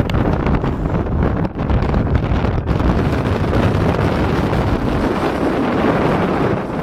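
Strong gale buffeting the microphone on an exposed winter mountain summit: a continuous loud rumble of wind noise that surges in gusts without letup.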